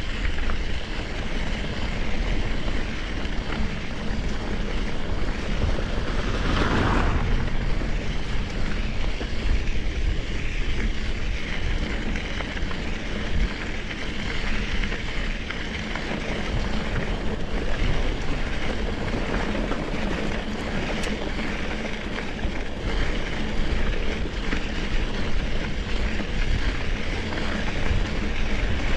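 Steady rushing wind noise on the camera microphone, with rumble from a mountain bike rolling over the trail. There is a brief louder rush about seven seconds in.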